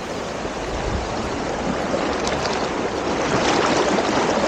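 Kookal waterfall's water rushing and splashing as a steady noise that grows a little louder about three seconds in.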